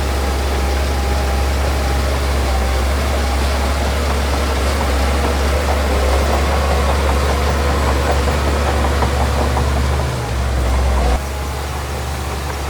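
Heavy diesel earthmoving machinery running steadily with a deep low rumble. Fine rapid ticking joins midway, and the low rumble drops off suddenly about 11 seconds in.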